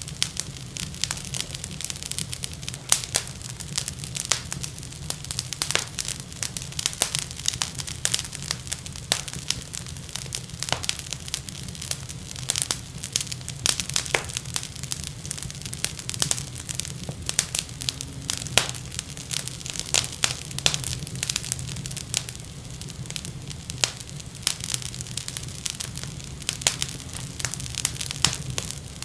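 Wood fire crackling in a fireplace: dense, irregular sharp pops and snaps over a steady low rumble of burning.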